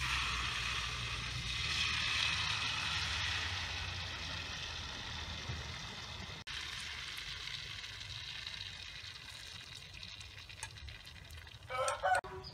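Duck egg and climbing wattle leaf batter hitting hot oil in a wok and sizzling, the sizzle fading slowly as the omelette sets. Near the end a short, loud call from a farm bird cuts in.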